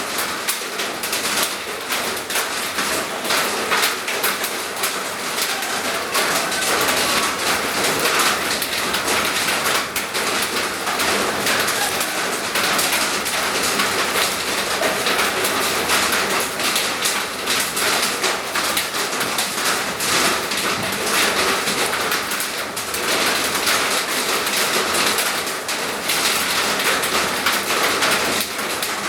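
Steady rain falling, a constant even hiss of many drops.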